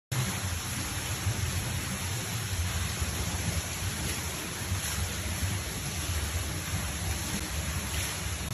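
Steady rushing storm noise, like heavy rain, with a low rumble underneath, starting abruptly.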